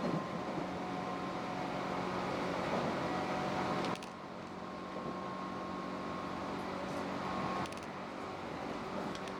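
Steady running noise heard inside a Tobu 8000 series electric train, a low hum with a steady higher tone over it. The loudness drops abruptly twice, about four seconds in and again about three seconds later.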